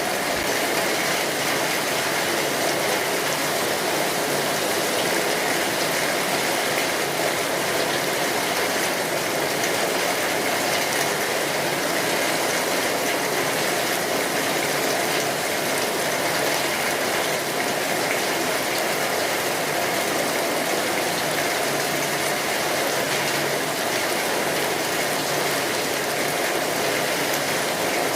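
Steady rainfall: a dense, even patter of raindrops at a constant level.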